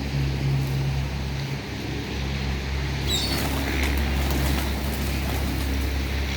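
A motor vehicle's engine runs with a steady low hum, easing off for a few seconds partway through. A brief high chirp comes about three seconds in.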